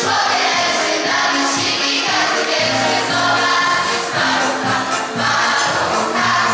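A choir singing a Polish Christmas carol (kolęda), with the notes held and moving in steps without a break.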